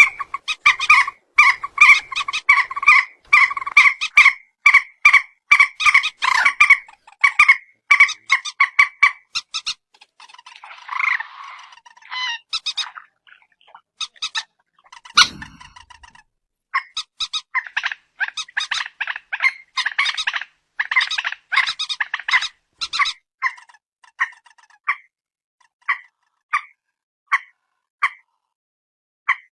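Calls of the bird known as peruk or mandar batu: a fast run of short, repeated notes several a second, then a rougher, noisier stretch and a brief thump about halfway through. Another dense run of calls follows, thinning toward the end into single notes about a second apart.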